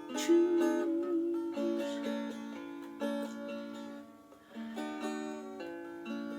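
A plucked string instrument playing a run of notes and chords, with a brief pause about four seconds in before it picks up again.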